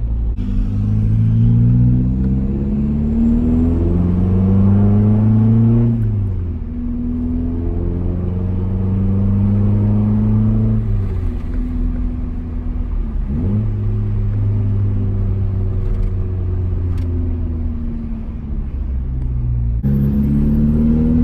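Nissan 240SX four-cylinder engine through a muffler delete with blast pipes stepping from 2-inch to 4-inch, really loud, pulled hard through the gears. The pitch climbs under acceleration and drops back at each of several upshifts.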